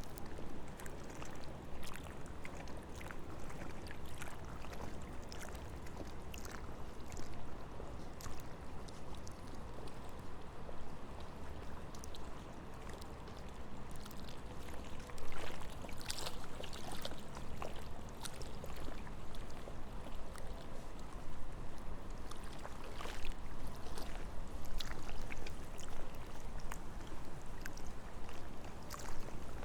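Wind on the microphone, a steady low rumble, with scattered light clicks and crunches throughout and a slightly louder gust about fifteen seconds in.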